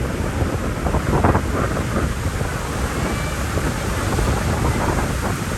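Strong wind buffeting the microphone over the rush of heavy surf breaking on the beach, a steady, dense rumble.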